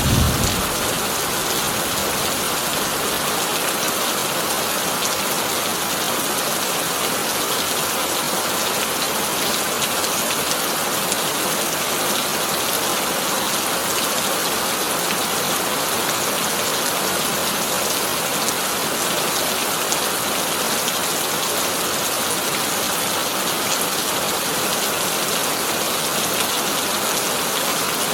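Heavy rain drumming steadily on a corrugated tin roof, an even hiss without breaks. The last of a thunder rumble fades out right at the start.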